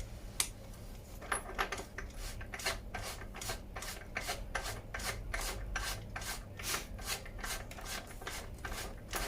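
A ratchet clicking about three times a second as the loosened bottom bracket is unscrewed from the bicycle frame with a BB tool and 24 mm ratchet.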